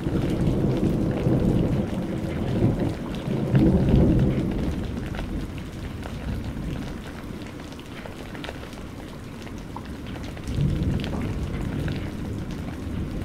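Steady rain with scattered drop ticks under rolling thunder. One long rumble begins right away, swells to its loudest about four seconds in and dies away. A second rumble rolls in about ten and a half seconds in.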